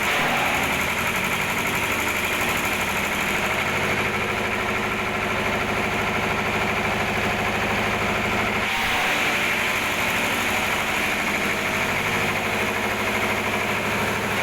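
Diesel engine of an agricultural shredder running steadily, with an abrupt shift in its sound about nine seconds in.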